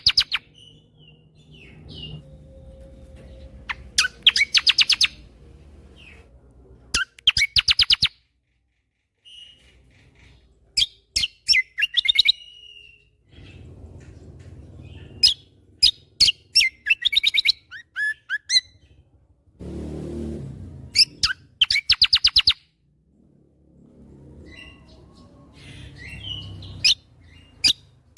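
Kecial kombo songbird singing in its 'tembakan' style: volleys of very fast, sharp repeated notes, about ten or more a second, broken by short whistled notes. A low rumble runs under parts of it.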